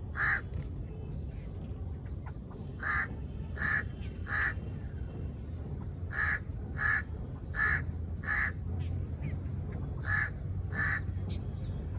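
A crow cawing repeatedly: about ten short caws, mostly in pairs or runs about 0.7 s apart, with a steady low rumble underneath.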